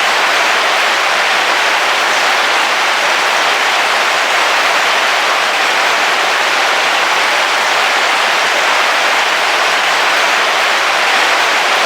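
Heavy rain falling on the roof of a camping car, heard from inside: a loud, steady, even hiss with no breaks.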